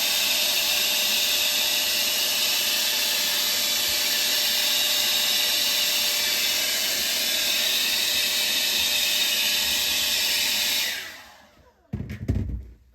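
Handheld hair blow dryer running on high with a steady rushing blow. It is switched off about eleven seconds in and winds down quickly. A brief low sound follows near the end.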